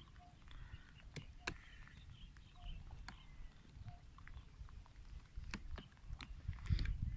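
Faint outdoor sound of birds: small high chirps and a short call repeated about once a second, over a low rumble that grows louder near the end, with a few sharp clicks.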